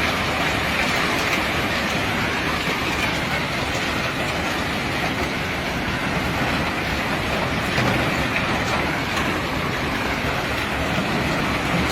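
Steady rattling rumble of rock cargo being unloaded by heavy machinery, stone and metal clattering together.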